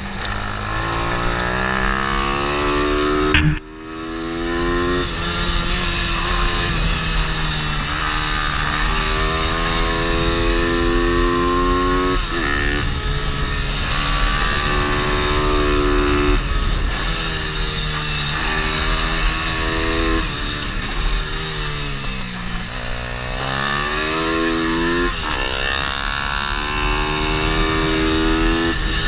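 MRF 140 pit bike's single-cylinder engine being ridden hard on a kart track. Its pitch climbs repeatedly as it accelerates, then drops off at each shift or braking point. There is a brief sharp break about three and a half seconds in.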